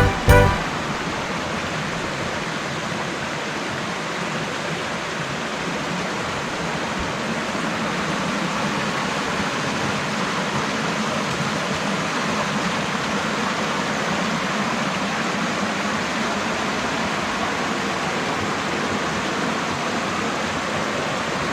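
Waterfall: a steady rush of falling water, growing a little louder toward the end.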